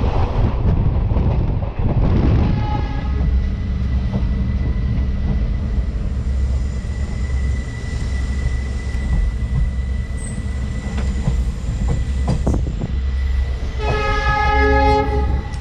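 Passenger train running on the rails with a steady low rumble. The train's horn sounds briefly about two and a half seconds in, then again for about two seconds near the end.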